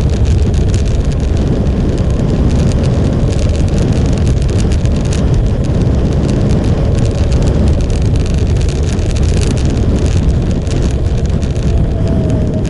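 Motorcycle on the move: its engine running steadily under a loud, even rush of wind noise on the microphone.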